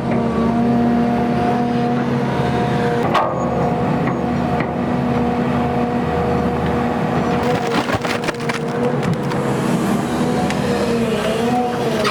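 Diesel engine of an XCMG XE310GA crawler excavator running under load, with a steady hydraulic whine whose pitch wavers near the end. A couple of sharp metallic knocks, about three and eight seconds in.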